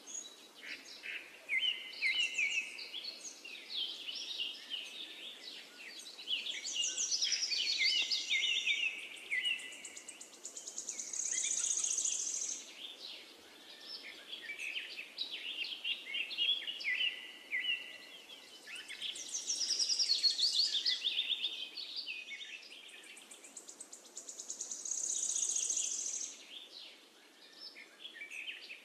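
Birds chirping and trilling, a busy chorus of high calls that swells and fades in waves, the same pattern coming round again about every 14 seconds.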